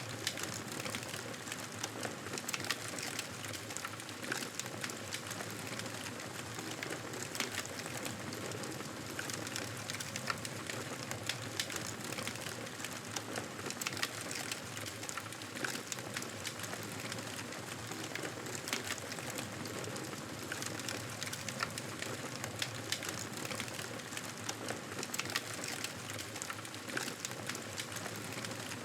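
Wood fire crackling, with frequent irregular pops and snaps over a steady hiss.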